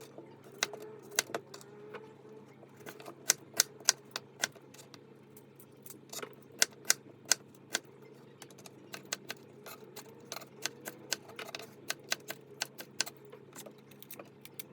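Light, irregular clicks and taps of dishes, containers and utensils being handled, over a faint steady hum.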